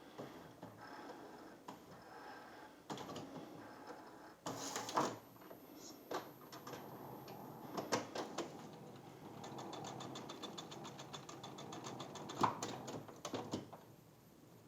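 Epson WorkForce WF-7720 inkjet printer running its power-up initialization, its printhead carriage lock freshly lubricated: motors and gears whir in spells, with a few sharp clicks and knocks, and a fast, even ticking in the last few seconds.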